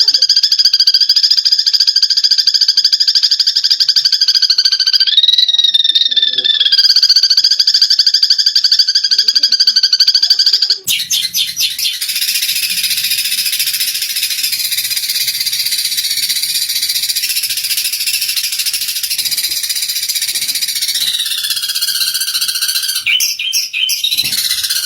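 Eurasian tree sparrows chattering in a fight: a dense, continuous run of rapid, high-pitched chirps. About 11 seconds in, the chatter suddenly turns thinner and hissier.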